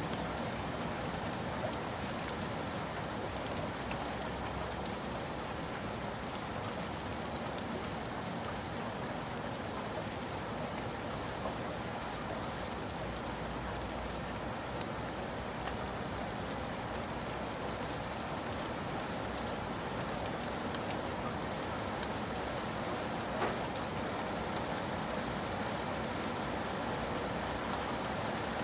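Steady rain falling, with individual drops ticking on a surface here and there and one slightly sharper drop near the end.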